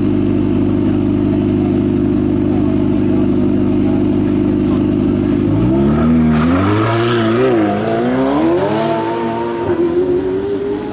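Hill-climb race car engine running steadily at a constant pitch, then about six seconds in revving up and pulling away, its pitch climbing, dropping briefly and climbing again as it shifts up through the gears.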